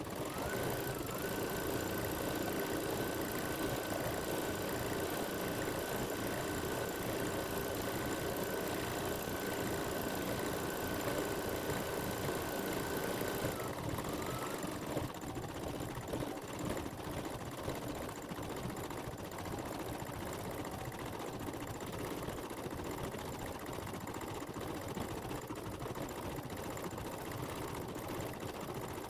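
Home embroidery machine running steadily as it stitches out a mitten design on a quilt block. A high whine runs for about the first half, then drops away while the machine keeps running a little quieter.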